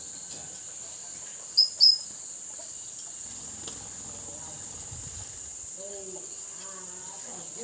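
Steady high drone of crickets, with two sharp, loud, high chirps in quick succession about a second and a half in, the calls of a blue-crowned hanging parrot. A chicken clucks near the end.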